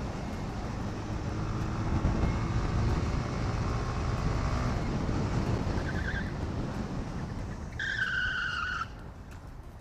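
Motorcycle riding in traffic: a steady engine and road noise, with a brief beep about six seconds in. Near the end a horn sounds for about a second.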